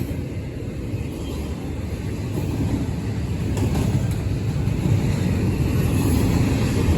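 Freight train rumbling past at close range, a steady low rumble that slowly grows louder.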